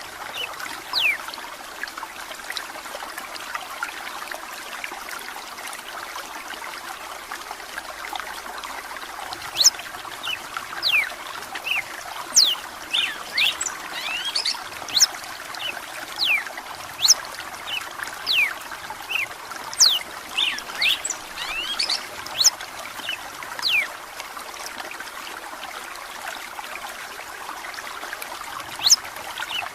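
Running water trickling steadily, with a red-cowled cardinal (galo-de-campina) giving a string of short, sharp, high chirping notes. The notes come thickest through the middle stretch and thin out near the start and end.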